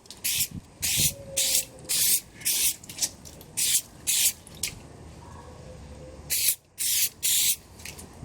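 Tyre shine being sprayed onto a car's tyres in a run of quick, short hissing squirts, about two a second, with a pause of a couple of seconds before a final few squirts.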